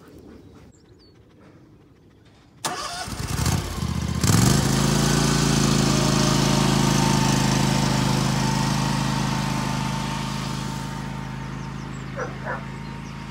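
Ride-on lawn mower's small engine cranked and catching about three seconds in, then settling into a steady run.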